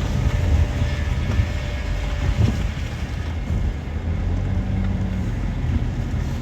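Car running, heard from inside the cabin: steady low engine and road noise.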